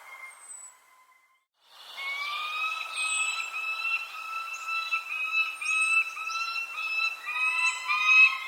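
Birdsong: a bird sings a long run of short, evenly repeated whistled notes, while thin high chirps drop in pitch above them. The sound cuts out to silence for a moment about a second in, then returns.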